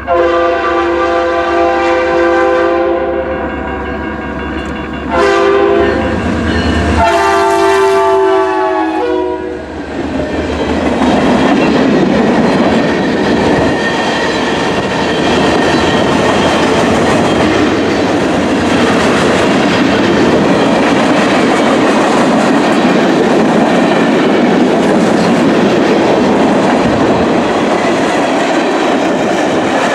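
A diesel freight locomotive's multi-chime air horn sounds a long blast, a short one and another long one, then the train passes, its wheels rolling loudly and clacking over the rail joints.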